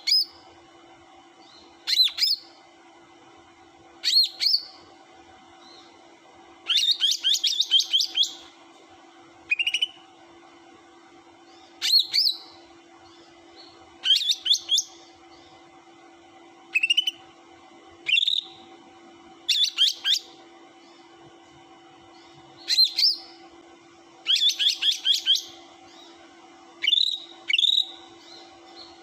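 Cucak hijau (green leafbird) calling in short, loud bursts of sharp high notes about every two seconds, some of them quick rattling runs of repeated notes, over a steady low hum. It is a birdkeepers' lure recording, meant to provoke other birds into answering.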